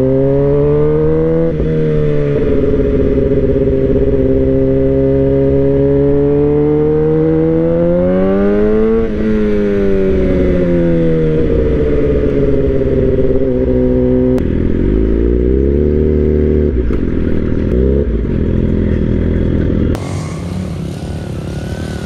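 Suzuki GSX-R sport bike's engine heard from the rider's seat, rising in pitch under acceleration, shifting about a second and a half in, climbing again to a peak around nine seconds in, then falling in pitch as the throttle eases. Its pitch changes abruptly about fourteen seconds in, and about two seconds before the end it gives way to quieter, different sound.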